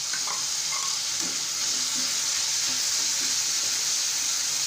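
Onion paste sizzling steadily in hot oil in a metal kadai over a high gas flame, while a spatula stirs it, scraping the pan lightly at intervals.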